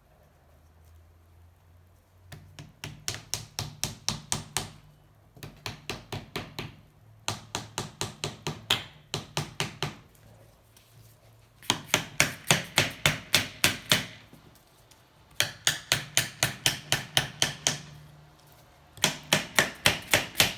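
A hammer tapping wedges in between the seized cylinder and the crankcase of a 1984 Honda C70 engine to prise the cylinder loose. The strikes come in six quick runs of about five blows a second, with short pauses between them.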